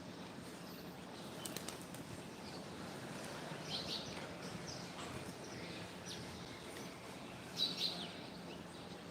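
Background hum with birds chirping: two short bursts of high chirps, the louder one near the end.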